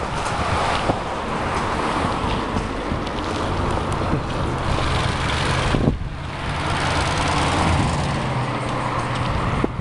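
Steady traffic and road noise with wind rushing over the microphone of a moving bicycle, easing briefly about six seconds in.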